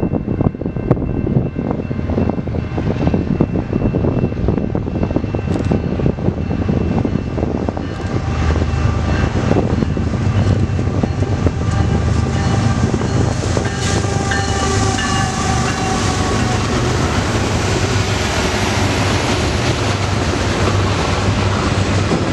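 A train passing close by: a steady rumble of wheels on rail with rapid clicking, joined about eight seconds in by a steady low hum.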